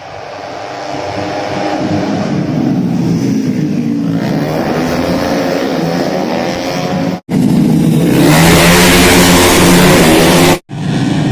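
Tuned automatic racing scooters running at high revs on a race track, the engine note rising and falling as they pass. There are two abrupt cuts where clips are joined, and between them comes the loudest stretch, a close pass with a lot of rushing noise.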